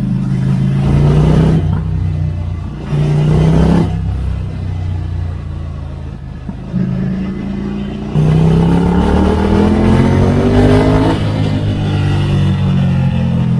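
2016 Ducati Scrambler Icon's 803 cc air-cooled L-twin engine through a Termignoni exhaust, under way on the road. It gives two short bursts of throttle, each rolled off again, and then, about eight seconds in, a longer pull rising in pitch that levels off near the end.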